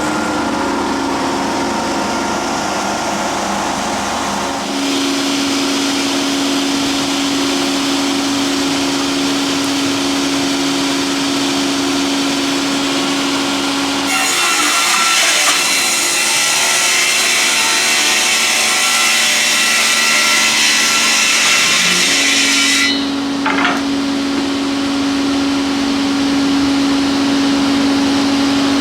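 ЦМ-800 multiple-rip edging saw, its gang of circular blades running free with a steady hum. About halfway through, a board is fed in and ripped lengthwise for about nine seconds with a loud high-pitched hiss, then the blades run free again.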